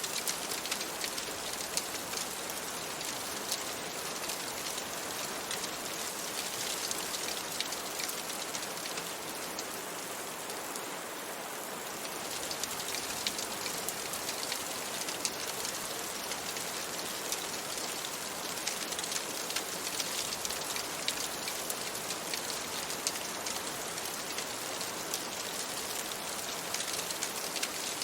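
Steady rain mixed with a crackling fire: an even hiss with many small, sharp crackles and ticks all through. The hiss eases slightly about ten seconds in.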